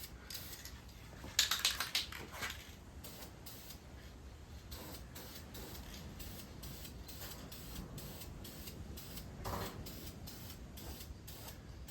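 Aerosol can of high-heat spray paint in use: a run of quick, light clicks and rattles, louder about one and a half seconds in.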